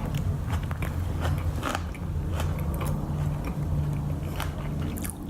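A person chewing a mouthful of crunchy green papaya salad, with irregular small crunches and clicks over a steady low hum.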